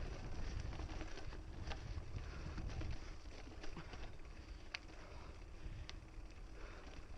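Mountain bike riding a dirt trail, heard from a GoPro mounted on the rider: wind buffeting the microphone and tyres rumbling over the ground, with a few sharp clicks and rattles from the bike. The rumble eases about three seconds in.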